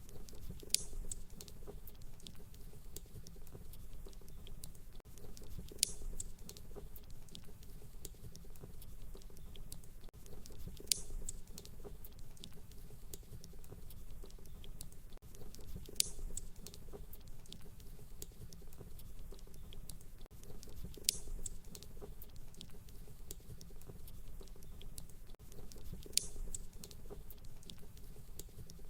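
Crackling fire: a steady low rumble with many small crackles, and a sharper pop about every five seconds at even spacing.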